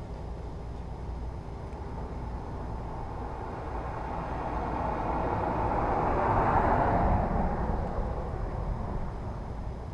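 A vehicle passing by: a rushing noise that swells over a few seconds, is loudest about six to seven seconds in, then fades, over a steady low rumble.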